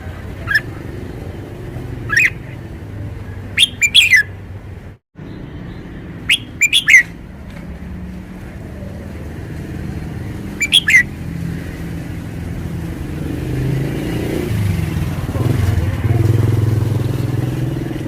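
Red-whiskered bulbul singing short, loud whistled phrases every few seconds, some as quick runs of two or three notes. A low engine hum underneath grows louder in the second half.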